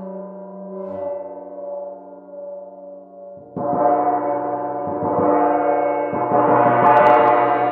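Steady ringing tones, then a gong struck loudly about halfway through, its shimmering wash of overtones swelling again near the end.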